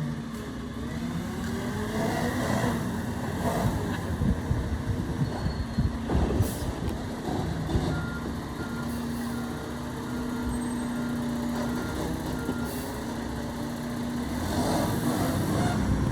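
Garbage truck running, its engine hum steady, with a backup alarm beeping in an even series for a few seconds from about halfway in.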